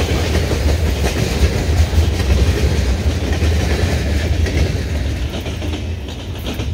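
Freight train of covered grain hopper cars rolling past, steel wheels running on the rails with a heavy rumble. The sound fades over the last second or two as the tail car goes by.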